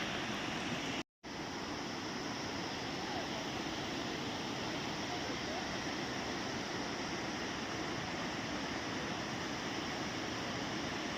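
Waterfall rushing: a steady, even wash of falling water, broken by a brief silent gap about a second in.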